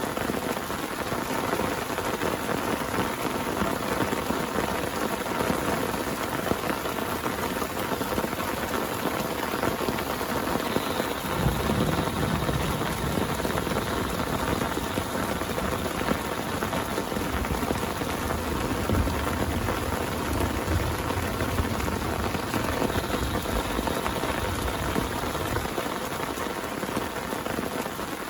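Heavy rain falling steadily on a tent. A low rumble of thunder comes in before the middle and rolls on for most of the rest.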